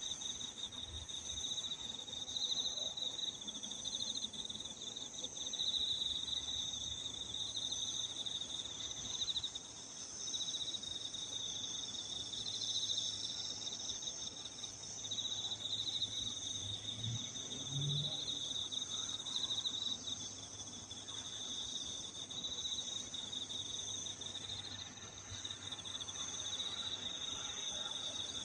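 An evening chorus of singing insects: two overlapping high, steady trills, the lower one swelling and fading in waves every few seconds.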